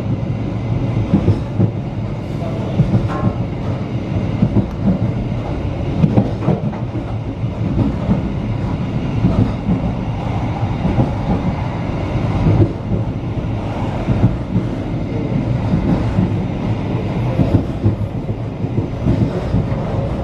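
Baturraden Ekspres passenger train running along the track, heard from on board: a steady low rumble with frequent clacks of the wheels over the rails.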